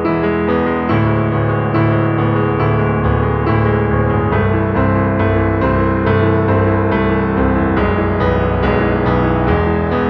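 Piano music: a slow melody over sustained bass notes, a new note struck every half second or so.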